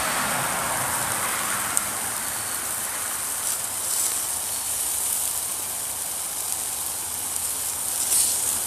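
Wood and charcoal campfire hissing steadily with a few sharp crackles, and beef patties and bacon sizzling over it.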